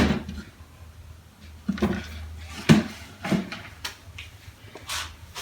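A wooden drawer from an old chest of drawers being handled: a string of irregular knocks and bumps, the sharpest right at the start.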